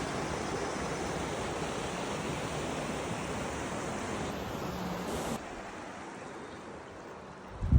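Rushing stream water, a steady hiss that drops to a quieter level about five and a half seconds in.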